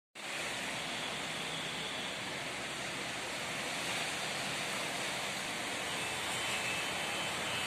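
Heavy downpour of rain falling steadily, an even hiss with no let-up.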